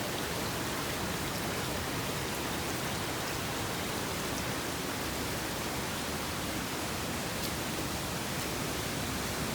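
Steady rushing of running water from a mountain stream, an even hiss with no breaks or changes.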